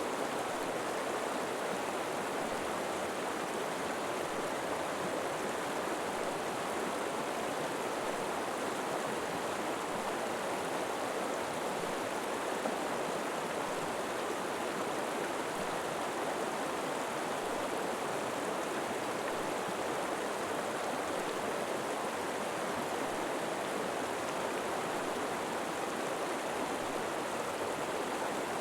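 A river flowing steadily, its rushing water an even, unbroken sound.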